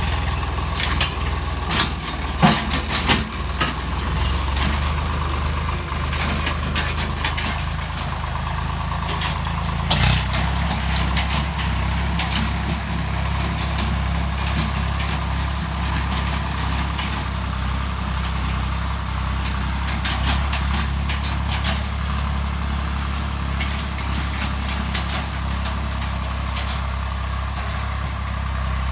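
Swaraj 855 FE tractor's three-cylinder diesel engine running at a steady speed. A few sharp knocks or clicks sound over it, the loudest about two to three seconds in and about ten seconds in.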